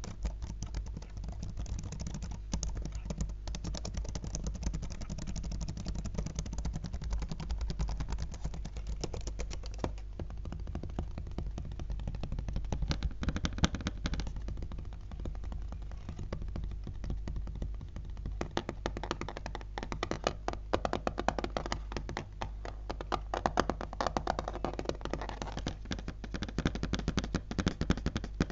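Fingers tapping fast on a laptop: a dense, rapid stream of small clicks and taps that keeps going.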